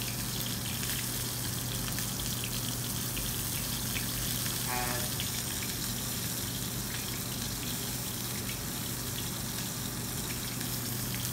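Chicken breast sizzling steadily in hot oil in a pan, a continuous hiss flecked with small crackles, over a steady low hum.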